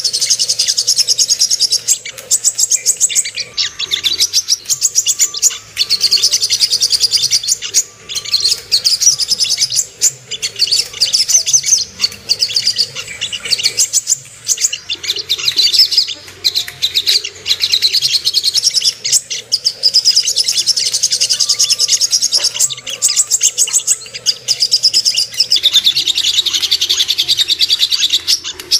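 Crimson sunbird (sogok ontong) singing: a rapid, high-pitched twittering trill in long runs with brief breaks, used as lure song to excite caged birds of its kind.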